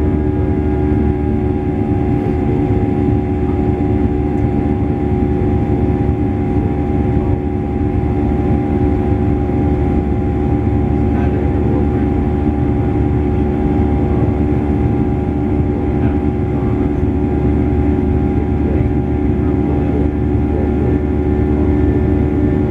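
Steady cabin noise inside a Boeing 737-800: the rumble of its CFM56 jet engines and the airflow, loud and even, with several steady hums. Faint voices in the cabin come and go beneath it.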